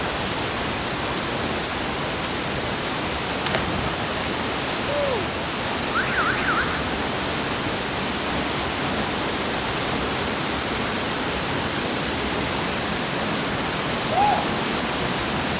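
Aling-Aling waterfall in heavy flow, running high with extra water, pouring with a steady, even rush. A few brief, faint calls rise above it, and there is a single sharp click a few seconds in.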